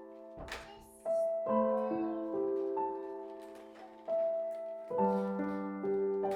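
Slow, gentle background piano music, with sustained chords that fade out before the next ones are struck.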